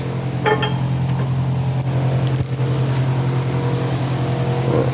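Steady machine hum, a low drone with several steady tones above it, like a shop fan or air-conditioning unit running, with a few faint light clicks over it.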